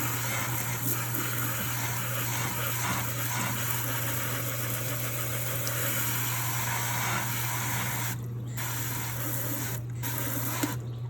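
Kitchen tap running steadily into the sink, a continuous splashing hiss with a steady low hum underneath. The hiss cuts out briefly a few times near the end.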